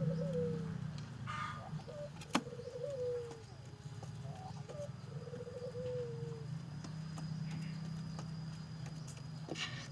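Puter dove (Barbary dove) cooing: three short rolling coos a couple of seconds apart, over a low steady hum, with a sharp click about two seconds in.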